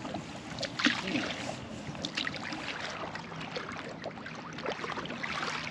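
Canoe paddle strokes dipping and splashing in calm lake water, with irregular small splashes and drips.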